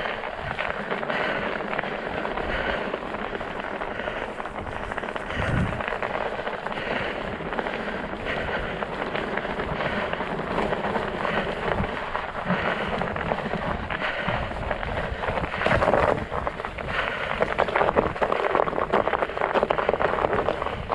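Studded fat-bike tyres rolling over ice and crusted snow, a steady dense crackle and crunch that gets a little louder near the end.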